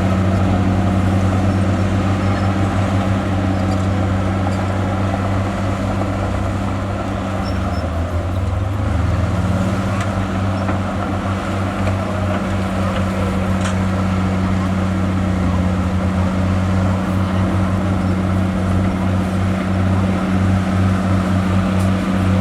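Heavy diesel engine of earthmoving machinery running steadily under load, with a brief drop in engine note about eight seconds in.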